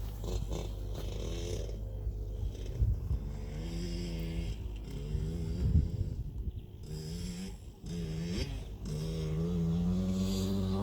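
Small two-stroke motocross bike engine, a KTM 65SX, running at low revs with an uneven, wavering pitch and a few short blips of the throttle.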